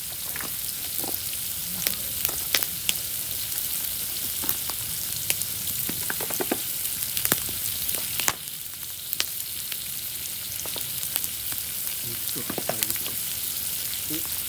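Beef and atsuage (thick fried tofu) sizzling in hot oil: a steady frying hiss with scattered sharp pops and crackles.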